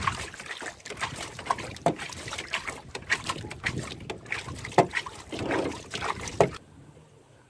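Irregular knocks and clatter with water splashing in a small fishing boat. The sounds stop suddenly near the end.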